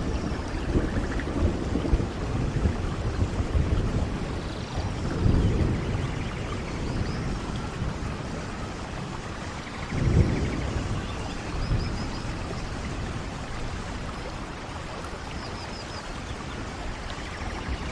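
Steady rain falling, with low rumbles of thunder that swell and fade, the strongest about ten seconds in. A few faint high chirps sound over the rain in the second half.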